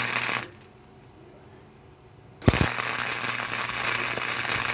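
Flux-core wire-feed welder arc crackling and sizzling as it runs a bead on sheet-metal floor pan, with a steady hum under it. The arc stops about half a second in and strikes again about two and a half seconds in.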